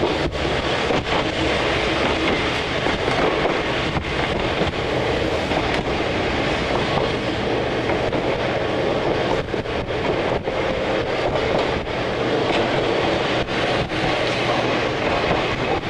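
Kumamoto Electric Railway 5000-series electric train running at speed, heard from inside the car: a steady rumble and rattle of wheels on rails.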